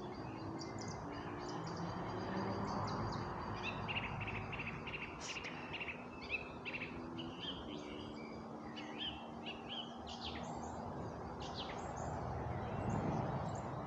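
Songbirds chirping and singing, many short calls overlapping throughout, over a steady low background hum.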